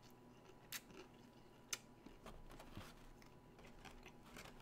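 Near silence with faint mouth noises of someone chewing soft food, including a couple of sharp clicks about a second apart.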